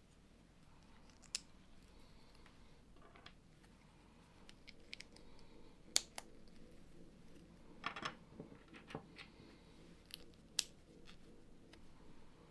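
Plastic Lego bricks being handled and pressed together: scattered sharp clicks and small rattles, the loudest about halfway through and again near the end.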